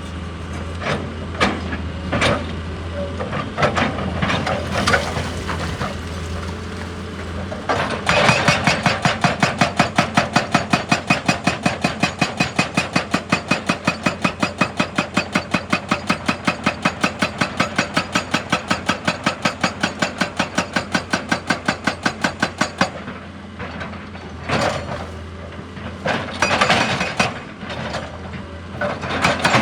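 Excavator's diesel engine running under scattered knocks and clanks. About eight seconds in, a hydraulic breaker hammer starts pounding at a steady four or so blows a second and keeps it up for about fifteen seconds, then stops. A few more knocks follow and the hammering starts again near the end.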